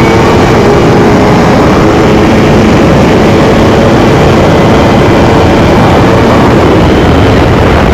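Sport motorcycle running hard at speed: a loud, steady rush of engine and road noise.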